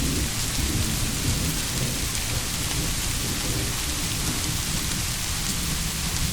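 Steady rain with a faint low rumble of thunder beneath it.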